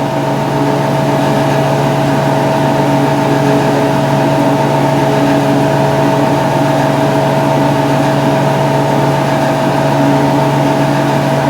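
Steady, unchanging mechanical hum with a constant mid-pitched whine over it.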